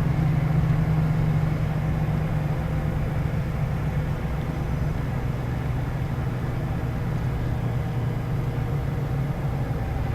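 Scania K113 bus's 11-litre six-cylinder diesel engine running steadily under way, a low drone with road noise, heard from inside the bus; the engine note eases a little after the first couple of seconds.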